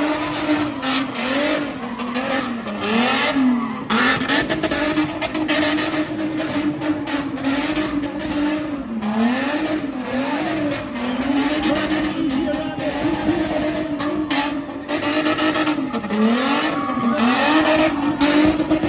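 Spinning car's engine held at high revs, its note dipping and climbing again every second or two as the throttle is worked, over the steady screech of tyres spinning on the pitch.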